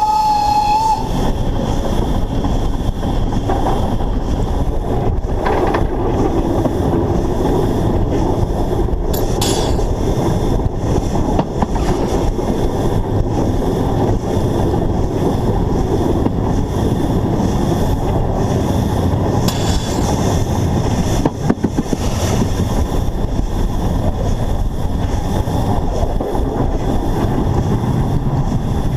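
Narrow-gauge steam locomotive running along the line, heard from a camera mounted on the engine: a loud, steady rumble and rush of running noise. A short high squealing tone sounds at the very start.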